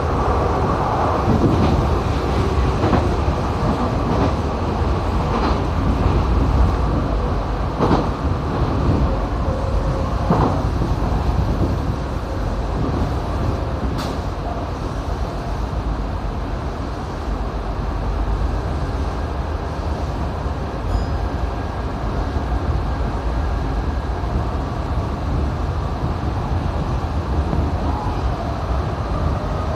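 Tokyo Metro 7000 series train running between stations, heard from inside the car: a steady rumble of wheels on rail. A few sharp clicks over rail joints or points come in the first ten seconds, and one more about fourteen seconds in.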